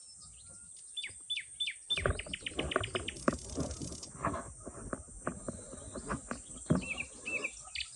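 Birds calling: a few quick falling chirps, then a rapid run of sharp notes and clicks, with scattered short chirps later, over a steady high hiss.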